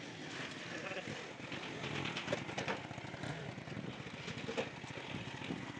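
Honda CD 70's small single-cylinder four-stroke engine running at a steady idle with a rapid low pulsing, after its cylinder head has been reassembled.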